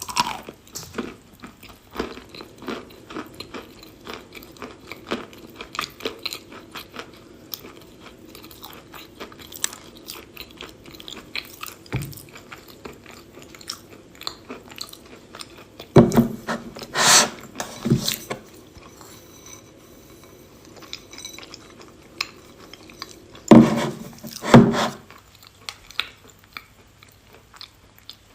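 A person chewing and crunching pieces of edible chalk coated in chalk crumbs, close up: a steady run of small crackly crunches, with louder crunching bites just past halfway and again near the end.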